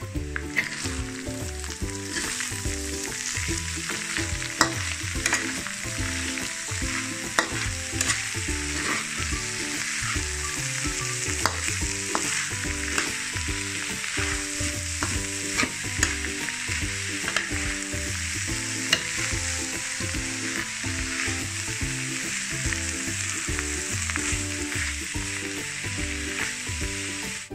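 Chopped filling of minced chicken, dried shrimp, mushroom and dried tofu sizzling in a pan as it is stir-fried, with frequent sharp clicks of the spatula against the pan.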